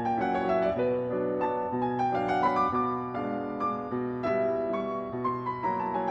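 Instrumental background music on piano: a melody of single notes moving over held chords.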